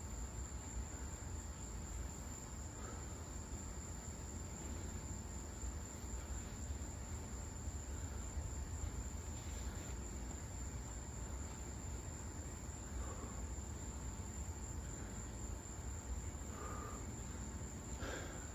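Steady high-pitched cricket trill, unbroken throughout, over a low background rumble, with a few faint knocks near the end.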